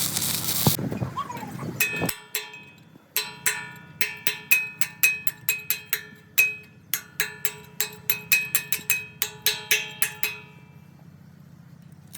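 Hammer striking steel repeatedly, about three blows a second, each blow ringing with a clear metallic tone. The blows run for about eight seconds with a short break midway, then stop. A crackling hiss cuts off within the first second.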